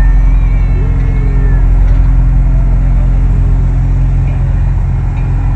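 Steady low engine drone of a passenger-and-vehicle ferry under way, a loud, even hum with faint voices in the background.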